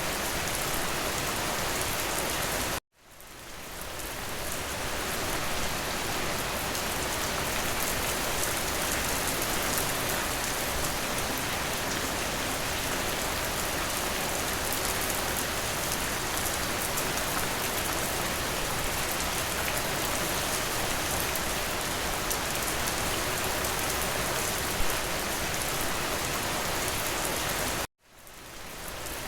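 Steady rain pattering on a window. It cuts out abruptly twice, about three seconds in and again near the end, and each time fades back in over a second or two.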